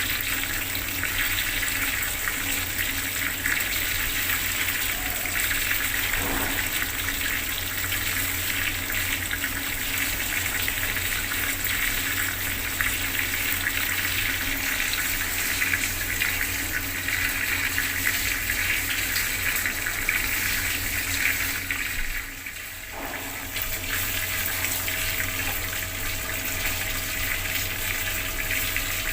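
Bathroom water tap running steadily, water splashing in a continuous rush, with a brief drop in level about three quarters of the way through.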